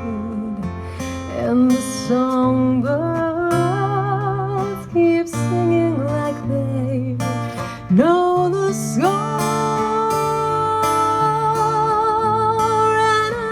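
A woman sings with vibrato over an acoustic guitar. About eight seconds in she slides up into one long held note.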